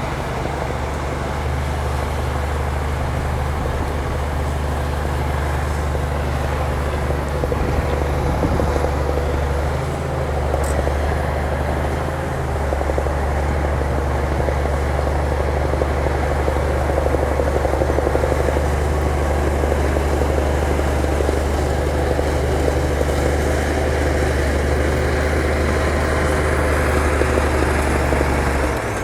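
Bulldozer's diesel engine running steadily under work, a low, even engine note that holds with only small dips in level.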